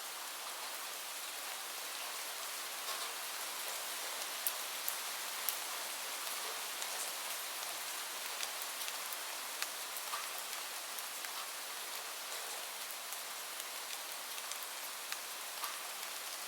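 Steady rain falling, an even hiss with scattered sharp ticks of individual drops standing out.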